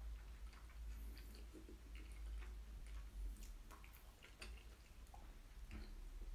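Close-miked chewing of food, with soft wet mouth clicks and smacks scattered throughout, over a faint steady low hum.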